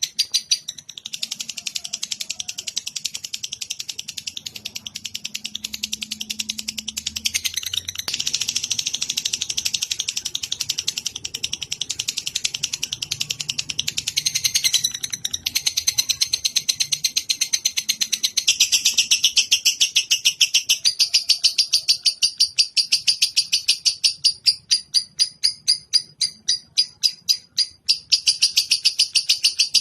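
A bird's long, continuous run of rapid, repeated high chattering notes, with a short break about halfway through.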